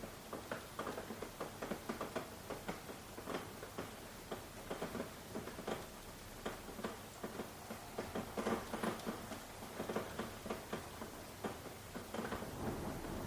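Rain: irregular drops tapping and pattering on a surface over a faint steady hiss, growing heavier and more continuous near the end.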